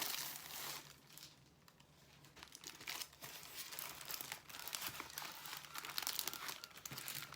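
Plastic packaging crinkling and rustling as a diamond painting kit is handled and unwrapped, quieting for a moment about a second in, then crinkling again.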